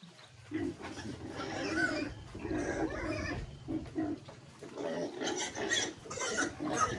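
Piglets grunting and calling in short, irregular bursts, with more and higher calls in the second half.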